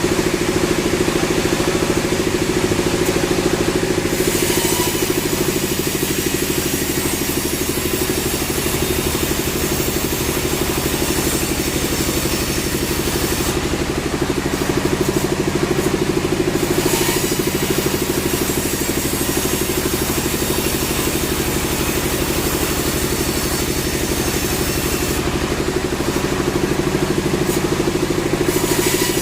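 Sawmill machinery running with a steady engine-like drone. A high hiss over it drops out and returns three times.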